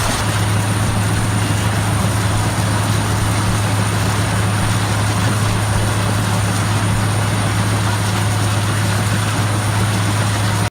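Heavy machine's diesel engine running steadily under a constant low hum, with an even mechanical rush over it.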